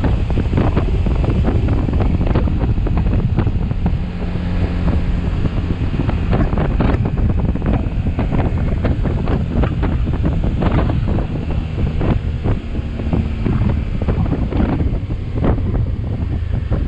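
Heavy wind buffeting the microphone of a moving motorcycle, with the bike's engine running steadily underneath.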